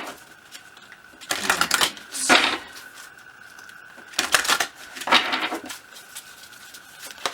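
A deck of oracle cards being shuffled by hand, in two short bursts of rapid card clicks a couple of seconds apart.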